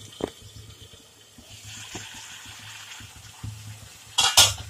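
Thick onion-tomato masala sizzling and bubbling in an aluminium kadhai as it fries down towards the oil separating. A wooden spoon stirs it, with light clicks against the pan and a short loud clatter near the end.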